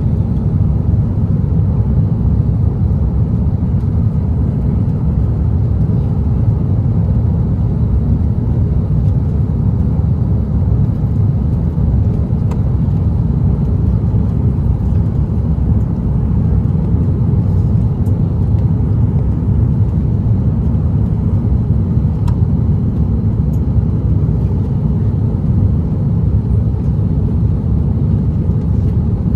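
Steady low drone inside the cabin of an Airbus A330-900neo: its Rolls-Royce Trent 7000 engines and the airflow, with no distinct thumps or changes.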